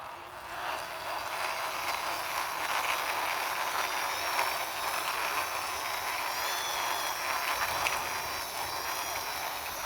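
Toy excavator truck being pushed along by hand, its wheels rolling with a steady mechanical noise.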